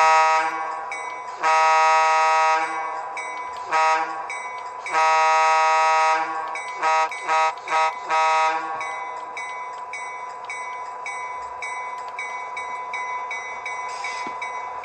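A model diesel locomotive's onboard sound system playing its horn in a long, long, short, long pattern, then three quick toots and one last short blast, over its bell ringing with steady repeated strikes. The horn stops about nine seconds in and the bell keeps ringing.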